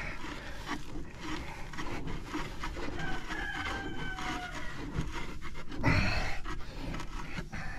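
Scraping and rustling as packed sawdust and bark chips are dug by hand out of the clogged intake openings of a circular sawmill's chip blower, with a louder scrape about six seconds in. The blockage is keeping the blower from sucking the chips out.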